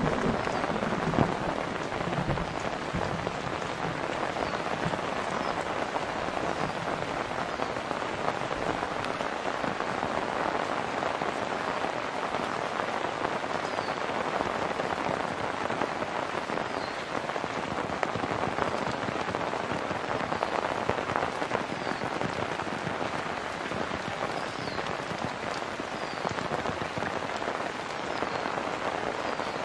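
Steady rain falling on a wet paved lane and roadside foliage, an even, unbroken patter.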